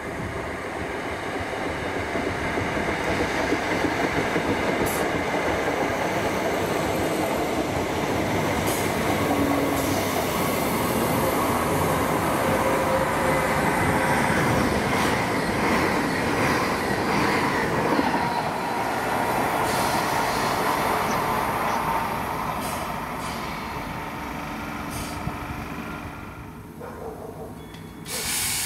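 A train running past on the line: rolling noise builds over the first few seconds, stays loud for about twenty seconds, then fades away near the end.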